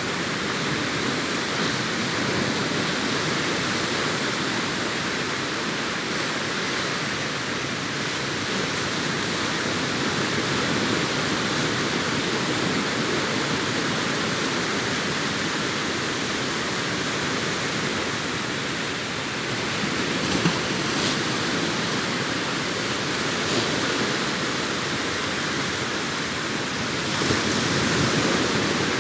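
Arabian Sea surf breaking and washing up a sandy beach: a steady rush of waves, swelling a little near the end.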